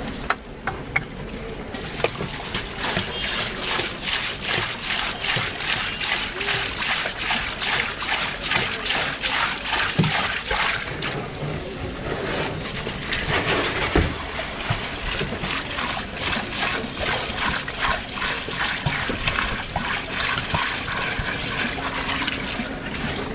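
Water trickling and splashing in a fast, even patter.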